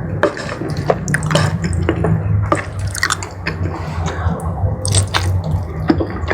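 Close-miked wet chewing of jumbo squid in spicy sauce, with many irregular sticky clicks and squelching mouth sounds.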